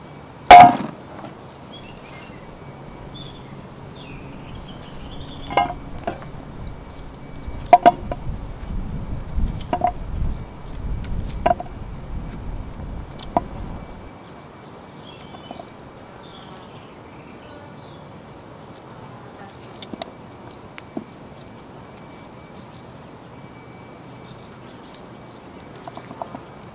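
A loud knock about half a second in, then scattered clinks and knocks, with a low rumble of handling noise in the middle stretch; birds chirp faintly in the background.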